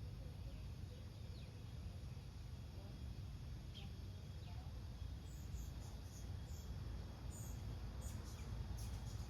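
Garden ambience: a steady low rumble of wind on the microphone, with faint, brief high-pitched bird chirps coming in short pairs over the last few seconds.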